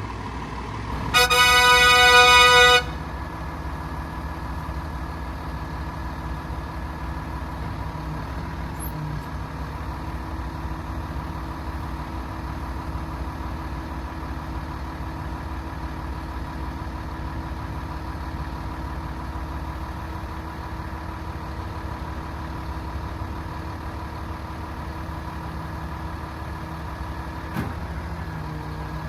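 A truck horn sounds once for about a second and a half, about a second in. Then the Hino 338's 7.6-liter turbo diesel idles steadily.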